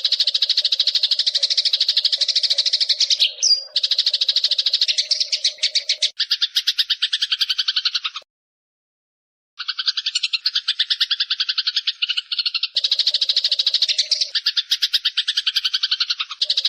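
Eurasian tree sparrow giving a long, rapid chattering trill (recetan), with many sharp notes a second repeated without a break, cut off by about a second of dead silence in the middle before the chatter resumes.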